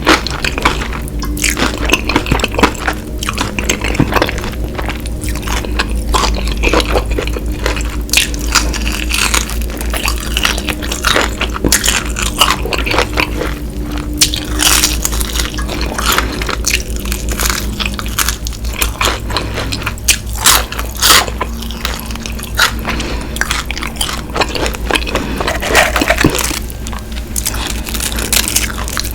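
Close-miked eating of crispy fried food: crunching bites and wet, squishy chewing, with many sharp crackles and a steady low hum underneath.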